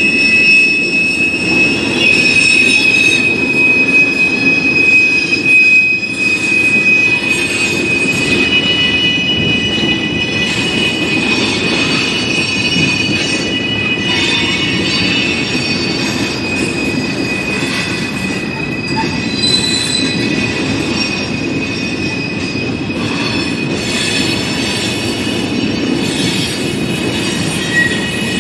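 Freight train cars rolling past, made up of boxcars, tank cars and flatcars, with a steady rumble of wheels on rail. Over it run several high, drawn-out metallic squeals from the steel wheels, strongest in the first half and easing off toward the end.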